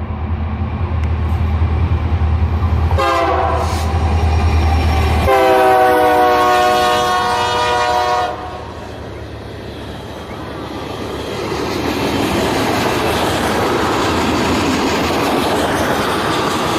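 Approaching train's locomotive sounding its horn twice, a short blast about three seconds in and a longer one of about three seconds starting at five seconds, over a heavy low engine rumble. Then the train passes with steady wheel-on-rail noise that grows louder toward the end.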